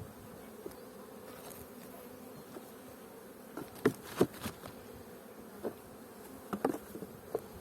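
Honeybees buzzing in a steady hum around the hives, with a few short sharp knocks near the middle and again near the end.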